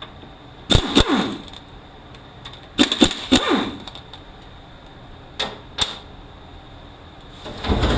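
Sharp metallic clicks and clinks in a few short clusters from hand tools working 12 mm bolts on a manual transmission case, with bolts being loosened and set down.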